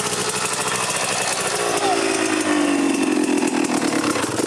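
Dirt bike engine running hard under load, a buzzing drone whose pitch sags about halfway through as the engine bogs.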